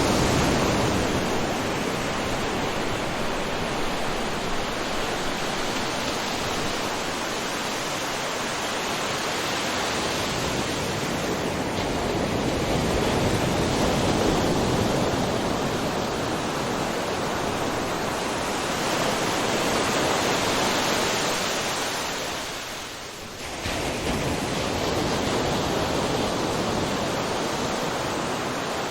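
Ocean surf: waves breaking and washing in a continuous rush that swells and ebbs slowly, with a brief dip about two-thirds of the way through.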